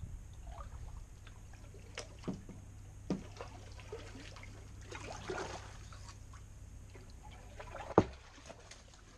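Kayak paddle dipping and splashing, with water trickling off the blade, as the kayak moves along a narrow channel. A few hollow knocks come through, the loudest a sharp one about eight seconds in.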